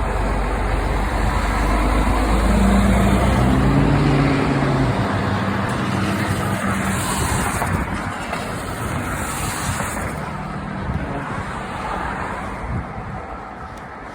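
Road traffic passing close by, with a heavy vehicle's engine the loudest part in the first few seconds before the noise gradually fades.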